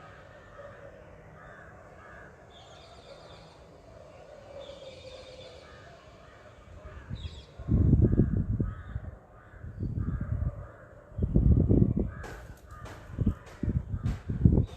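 Crows cawing in the background. From about halfway, loud low rumbling bursts come and go, with a run of sharp clicks near the end.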